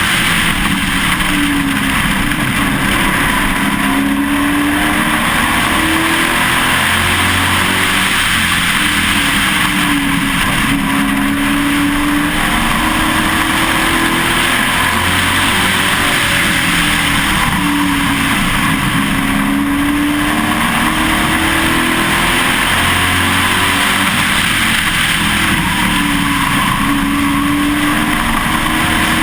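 Pro Truck race engine heard from inside the truck at racing speed, loud, with wind and road noise. The engine note drops and climbs again about every seven to eight seconds as the driver lifts for each turn and accelerates out.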